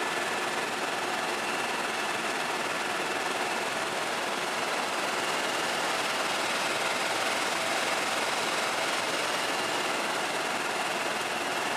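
Tour helicopter in flight: steady, unbroken engine and rotor noise.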